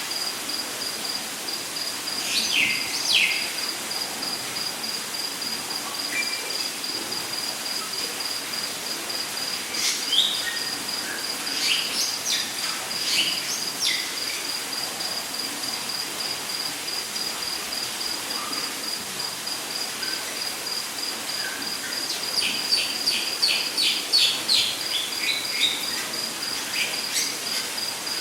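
Rainforest ambience: an insect keeps up a steady, evenly pulsed high trill throughout. Birds chirp on top in short bursts, busiest about two-thirds of the way through, over a steady rushing hiss of falling water.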